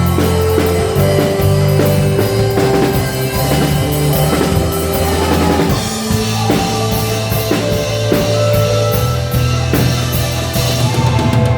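Live band playing an instrumental rock passage, led by electric bass and a drum kit: deep held bass notes under steady drum hits, with sustained guitar or keyboard tones above.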